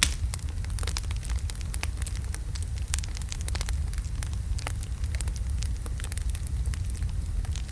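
Wood logs burning in a fireplace: a steady low rumble of flame with many sharp, irregular crackles and pops.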